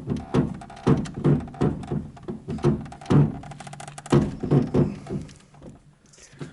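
VAZ-2110 steering rack crunching and creaking as the steering wheel is turned: a series of short creaking knocks, two or three a second, dying away about five seconds in. The owner takes the crunching for grease inside the rack that has dried out with age.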